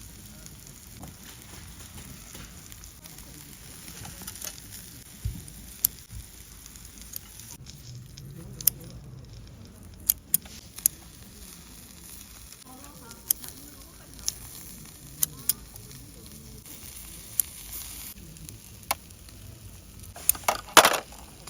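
Food sizzling over an open fire, with sharp pops and crackles scattered through and a loud cluster of pops near the end.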